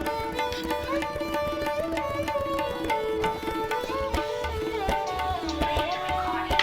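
Instrumental background music in an Indian classical style: a plucked string melody with sliding notes over a steady hand-drum rhythm.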